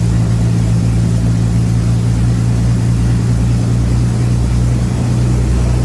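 Lancaster's number-two engine running steadily after start-up, at an even speed with no change in pitch.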